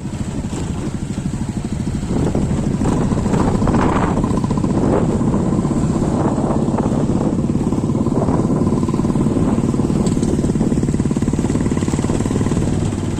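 A motor vehicle's engine running steadily, getting louder about two seconds in.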